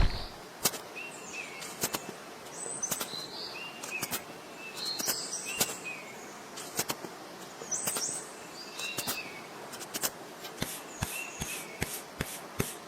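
Small birds chirping in short calls, over scattered light clicks; near the end the clicks turn into an even run of about four a second.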